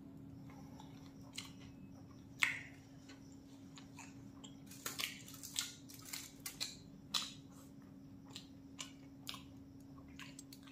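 Close-up chewing of a mouthful of stuffed roll: soft wet mouth clicks, with a loud click about two and a half seconds in and a cluster of sharper crackles around the middle, where a hand handles the aluminium-foil wrapping.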